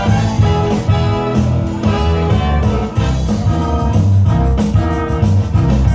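A rock and roll band playing an instrumental passage with no singing, over a strong, steady bass line. It is the musical link from one song of a medley into the next.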